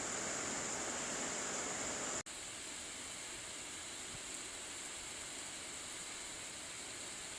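Steady hiss of falling rain. About two seconds in it cuts out for an instant and comes back a little quieter.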